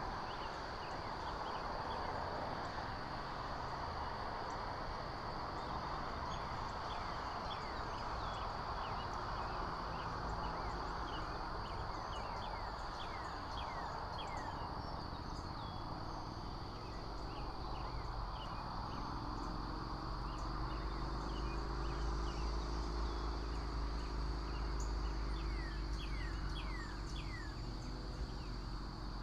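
Outdoor ambience at a treetop hawk nest: a steady rushing noise like wind in the trees, with many short, quick chirps of small birds calling throughout and a steady high insect-like tone. A low drone builds about two-thirds of the way in.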